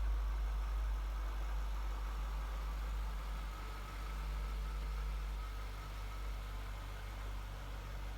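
1998 Jaguar XKR's supercharged 4-litre V8 running steadily at a low, even idle.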